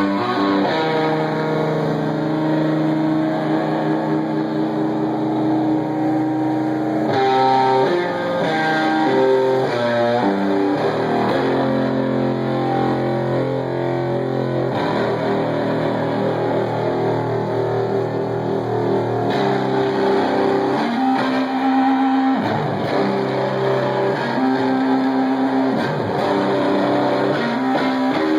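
Live stoner metal band playing an instrumental passage led by distorted electric guitar.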